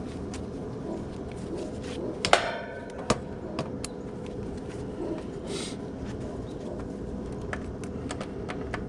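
Work on the heat pump's outdoor unit while checking for power at the disconnected unit: one sharp metallic clank with brief ringing about two seconds in, then a smaller click, among scattered light tapping and handling clicks over a steady background hiss.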